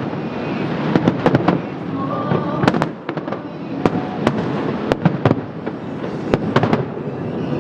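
Aerial fireworks bursting in quick succession: clusters of sharp bangs, several close together about a second in and again around five seconds in, over a continuous rumble of shells going off.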